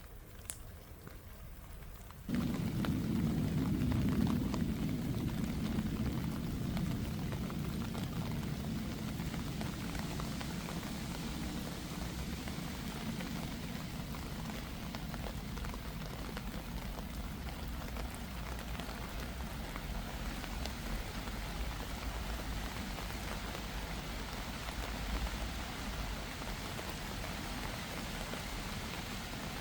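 Rain drumming steadily on an umbrella, a dense patter that starts abruptly and loud about two seconds in after a quieter start.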